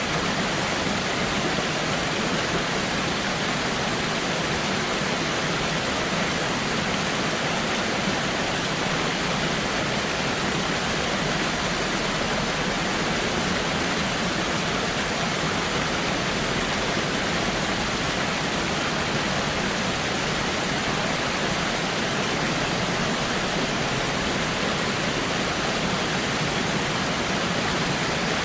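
Waterfall: water falling and splashing steadily, a constant even rush with no change.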